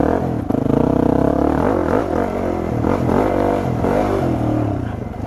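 Yamaha WR250 dirt bike engine running, its revs dipping and climbing a couple of times in the middle of the stretch and steady on either side.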